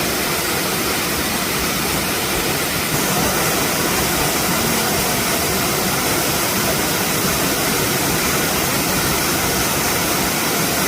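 Waterfall rushing: a loud, steady wash of falling water that steps up slightly about three seconds in.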